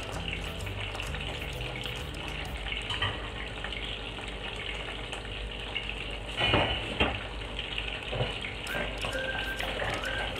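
Chicken pieces frying in a pan, a steady sizzle, with a couple of sharp clicks about two-thirds of the way through.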